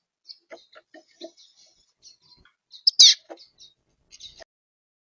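Small songbirds chirping at a garden feeder: a scatter of short, high chirps and calls, with one loud, sharp chirp about three seconds in.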